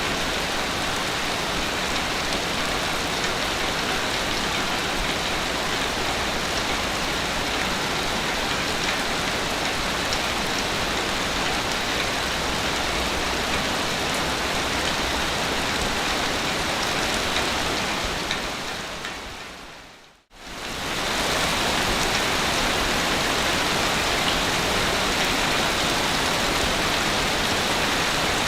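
Steady rushing water noise, even and unbroken. About two-thirds of the way through, it fades out to a moment of silence and then comes straight back at full level.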